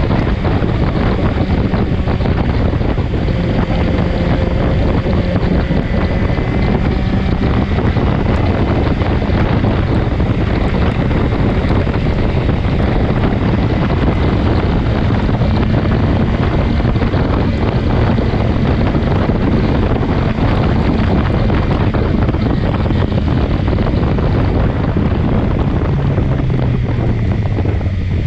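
Heavy wind rushing over the microphone while riding a BMW S1000XR motorcycle, with the inline-four engine's steady drone underneath. The engine note falls near the end.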